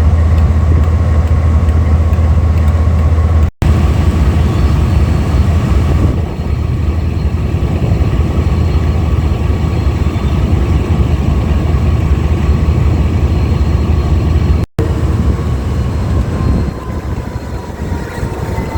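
Diesel-electric locomotive engine running at idle with a deep, steady hum and a steady higher whine above it. The sound cuts out for an instant twice, and near the end the whine slides down in pitch.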